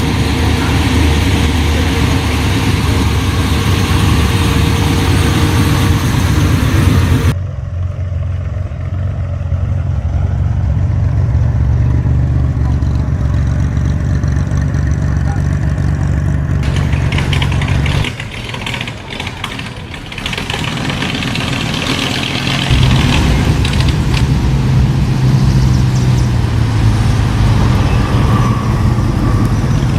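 Car engines running and idling, with a deep low rumble. The sound changes abruptly several times, as separate clips are cut together.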